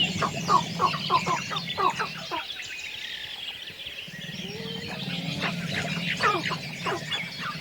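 Several birds calling together: a dense mix of high chirps and rapid series of short down-slurred calls, with a low steady drone underneath for the first two seconds and again from about four seconds in.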